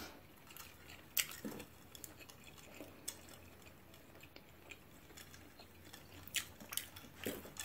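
Faint eating sounds: chewing with scattered light mouth clicks and small taps, a few of them sharper a little after one second and near the end.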